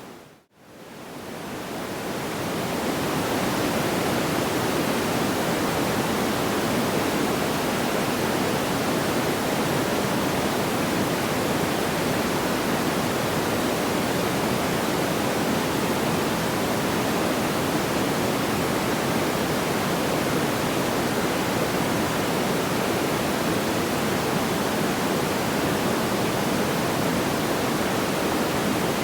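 Steady, even rushing noise with no audible crackles or pops. It dips almost to silence about half a second in, then swells back up over the next couple of seconds, like a loop restarting.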